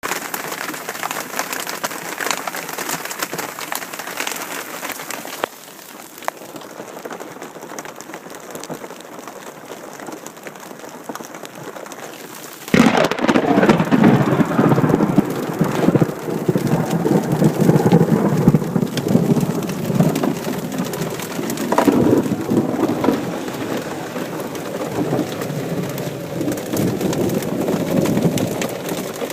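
Rain falling steadily, then about halfway through a sudden loud thunderclap from a nearby lightning strike, followed by a long rolling rumble of thunder over the rain.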